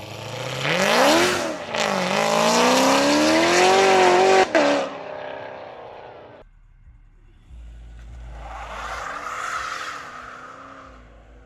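Car engine revving hard: the pitch climbs, dips, climbs again and holds high, then cuts off sharply about five seconds in. A second, quieter rev rises and falls near the end.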